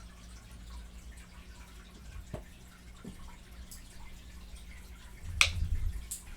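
Close-miked wet mouth sounds of someone eating fried chicken: a few scattered smacks and clicks, with one sharper, louder smack about five seconds in, over a faint steady hum.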